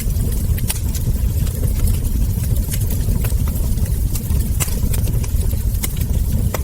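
Wood fire crackling: scattered sharp pops and snaps, a couple each second, over a steady low rumble.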